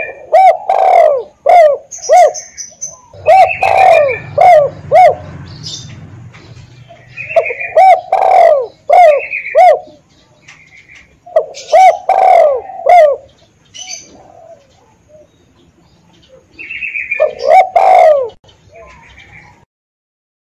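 Spotted dove (tekukur) cooing: five phrases, one about every four seconds, each a short run of low, throaty coo notes. This is the bird's territorial call, used as a lure-bird recording.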